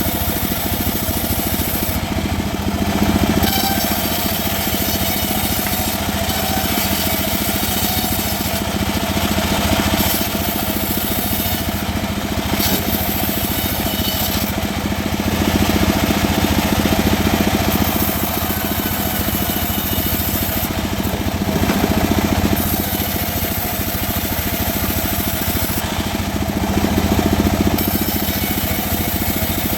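Home-built sawmill saw running steadily under power while cutting mahogany, a constant motor hum under a rasping cutting noise that swells and eases every few seconds.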